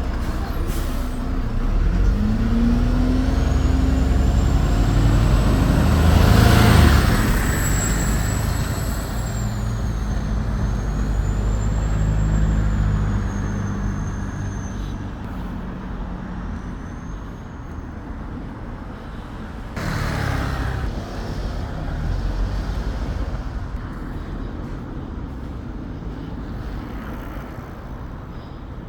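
Road traffic with double-decker buses, cars and vans going past, their engines rumbling. One engine climbs in pitch early on, a loud surge comes about six seconds in, and a high wavering squeal runs for several seconds afterwards. Another short rush of noise comes about twenty seconds in, and then the traffic slowly fades.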